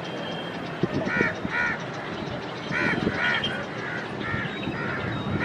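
Crows cawing repeatedly, short harsh calls often in pairs, over steady background noise with a few faint knocks.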